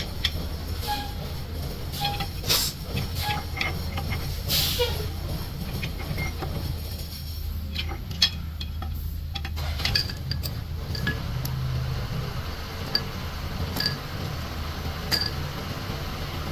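Metal tools and parts clinking and knocking against each other at irregular intervals, over a steady low hum.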